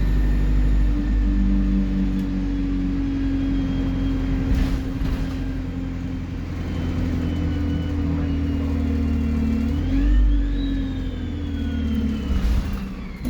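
Alexander Dennis Enviro 200 bus's diesel engine running steadily under way, with a high thin turbocharger whistle over it. About ten seconds in the whistle climbs sharply in pitch, then falls away slowly.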